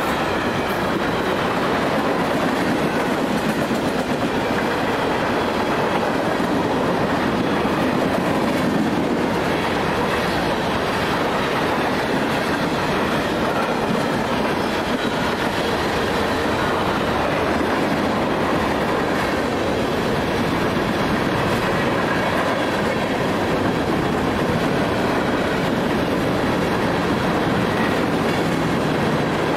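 A freight train's tank cars and covered hoppers rolling past, with a steady noise of steel wheels running on the rails that holds even throughout.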